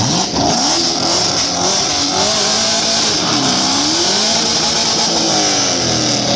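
A vehicle doing a burnout: its engine climbs sharply to high revs and is held there, rising and falling, while the spinning tires squeal. It is very loud.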